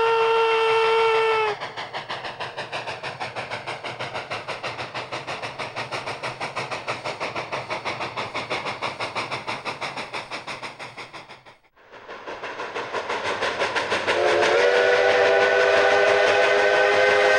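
Narrow-gauge coal-fired steam locomotive: a whistle note cuts off about a second and a half in, then rapid, even exhaust chuffs at about four a second. The sound drops out briefly, the chuffing returns, and for the last three seconds the whistle blows again as a long chord of several tones.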